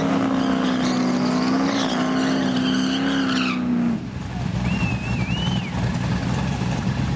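Ford XB Falcon GT's 351 V8 with a Crane F246 cam held at steady high revs through a burnout, rear tyres spinning and smoking. The throttle shuts about four seconds in, and the engine drops to an uneven low idle as the car rolls forward.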